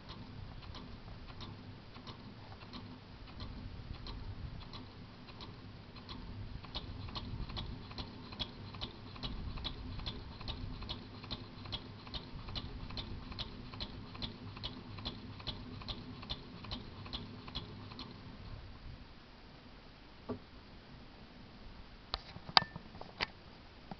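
Scratch-built stationary gas engine running with a light, regular ticking about three times a second over a low rumble, then stopping about three quarters of the way through. A few sharp separate clicks follow near the end.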